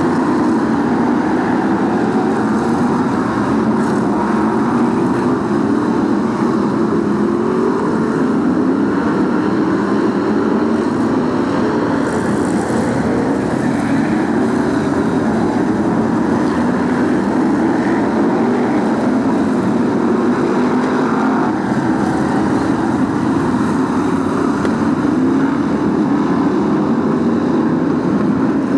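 Several BriSCA F1 stock cars' V8 engines running hard together on a racing oval, a steady loud drone whose pitch keeps rising and falling as the cars accelerate and back off.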